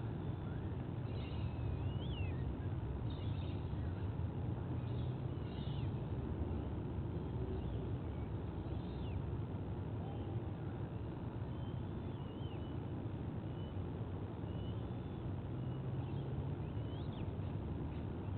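Scattered faint, short bird chirps and whistles over a steady low background rumble.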